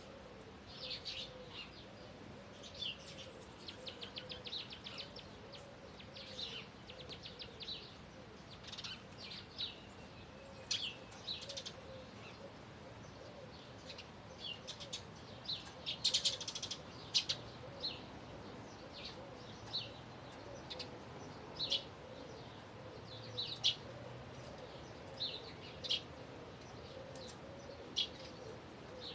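Songbirds chirping and singing, with short rapid chirps and trills throughout and a few louder calls about halfway through, over a faint low wavering hum.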